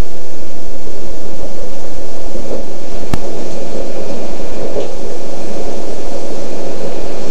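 Steady running noise inside a Joetsu Shinkansen 200 series car moving along the line, with a single sharp click about three seconds in.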